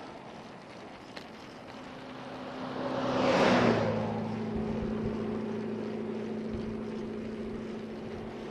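A vehicle passes close by, its noise swelling and fading about three seconds in. A steady low engine hum sets in as it approaches and carries on after it has passed.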